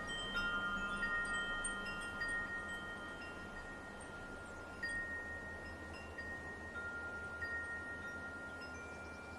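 Wind chimes ringing, struck again at irregular moments with long sustained tones that fade slowly, over a soft steady background hiss of light wind.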